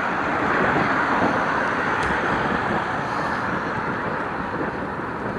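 Steady rushing noise of riding a bicycle along a road: wind on the microphone mixed with road and traffic noise.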